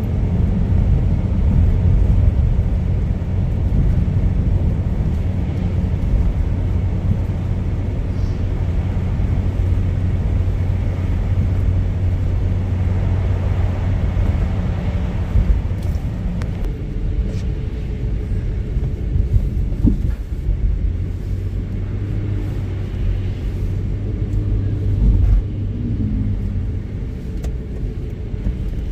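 Steady low rumble of a car driving, with a constant engine hum underneath; the higher road hiss drops off about two-thirds of the way through.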